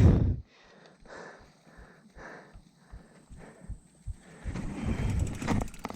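A cyclist breathing hard in short puffs while climbing a steep hill, louder for about a second near the end.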